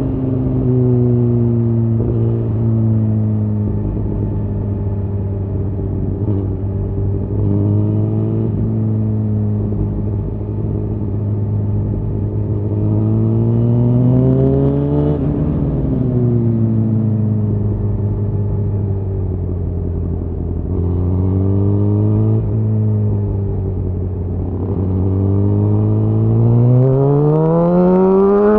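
Suzuki GSX-R1000R's inline-four engine through a Yoshimura R-11 SQ exhaust, heard onboard while riding at steady, moderate revs. The revs rise and fall once about halfway through, then climb steeply over the last couple of seconds as the bike accelerates.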